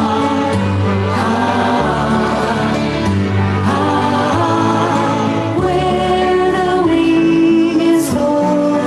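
Choir singing a song over a recorded backing track, with sustained chords and a steady bass line.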